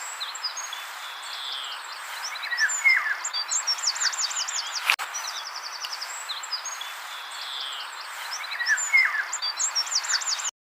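Eurasian golden oriole calling, with short whistles and chirps of other birds over a steady natural hiss. The recording loops once about halfway through, with a click at the join, and cuts off suddenly near the end.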